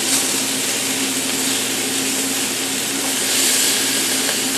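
Liver sizzling steadily as it sautés in a frying pan, with the steady hum of a fan running to clear the smoke.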